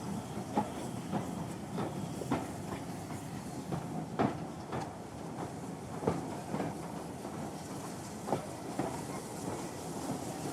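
Train running at a steady speed: a continuous rumble with sharp, unevenly spaced knocks of the wheels passing over rail joints.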